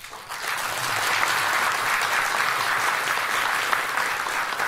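An audience applauding steadily after a line of a welcome speech, starting abruptly and easing off slightly near the end.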